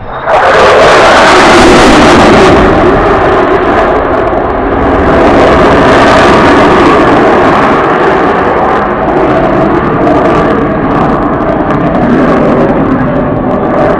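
Single Pratt & Whitney F135 jet engine of an F-35A Lightning II at high power during a low pass, very loud noise without a clear pitch. It starts suddenly about a third of a second in and stays loud, swelling and easing slightly.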